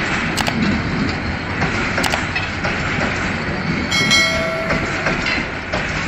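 Passenger coaches of an express train rolling past close by, the wheels clattering steadily on the track. A short ringing tone sounds about four seconds in.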